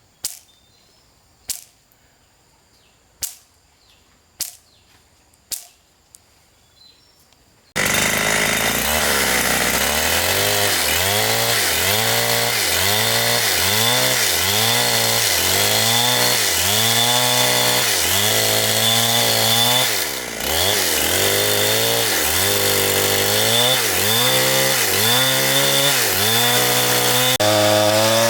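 Five sharp knocks about a second apart over a quiet background. Then a large chainsaw comes in abruptly and runs loud, its engine pitch dipping and recovering about once a second as it bogs under load in the cut.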